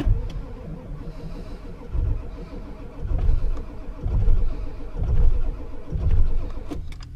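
Ford 7.3 Power Stroke V8 diesel cranking on its starter in freezing cold, with a steady starter whine and heavy surges about once a second as it tries to fire, but it does not catch. The cranking stops near the end. The engine is cold-soaked, and its batteries are low from a month of sitting.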